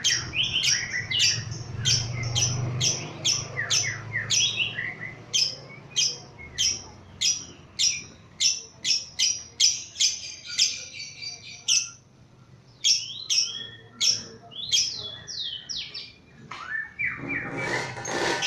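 Lovebird chattering in its 'ngekek' song: a long run of short, shrill chirps, about two to three a second, with a brief pause about twelve seconds in. Near the end a different, denser sound comes in.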